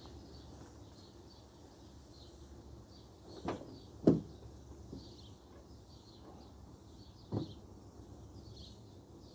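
A few short knocks or thuds, the loudest about four seconds in, over a faint background with small high chirps. No engine is running.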